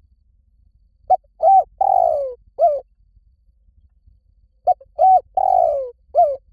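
Spotted dove cooing: two phrases, each a short coo, a second coo, a longer coo falling in pitch, then a closing coo, about three and a half seconds apart.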